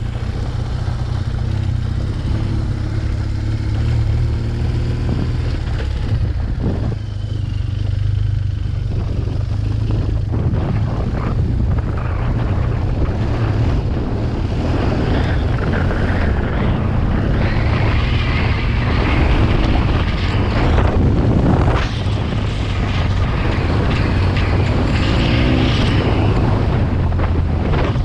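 BMW R 1200 GS boxer-twin engine running steadily through its SC Project exhaust while riding. Wind noise on the microphone builds from about a third of the way in.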